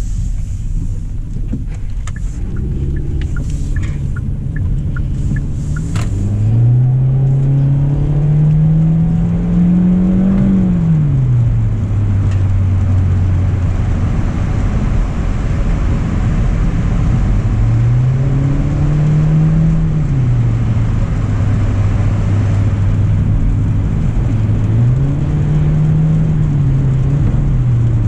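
A 2025 Hyundai Elantra's four-cylinder engine pulling the car up to speed on a wet road. It rises steadily in pitch for about four seconds, drops back to a steady drone, then rises and falls twice more. A constant hiss of tyres on the wet road runs underneath, with a few light clicks in the first seconds.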